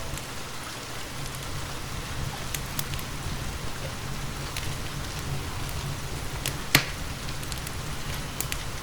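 Steady rain together with a wood fire crackling in a fireplace: scattered sharp pops over an even hiss, with one loud crack near the end.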